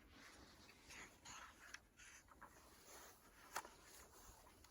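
Near silence, with faint scattered rustling and one short click a little past the middle.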